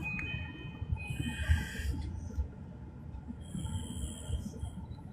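Running noise of a moving electric train heard from inside the carriage: a steady low rumble with uneven thumps from the track, a thin high whine at the start and a brief hiss about a second in.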